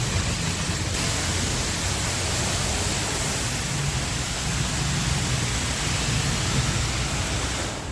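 Automatic car wash spraying water over a car: a steady, even hiss of water jets with a low rumble of the machine beneath, cutting off abruptly near the end.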